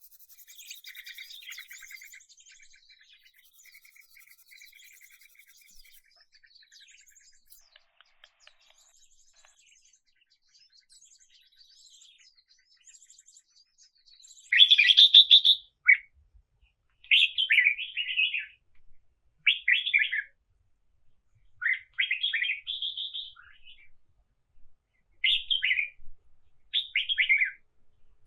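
Birds singing in woodland: faint overlapping chirps and trills at first, then from about halfway one bird nearby sings loud short phrases every one to two seconds, about seven times.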